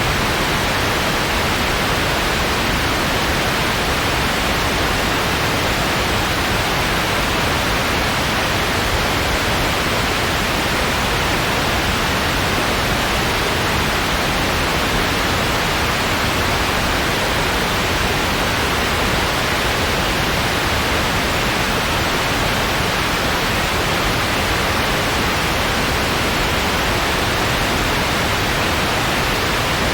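Steady white noise, a constant even hiss softened in the highest treble, unchanging throughout.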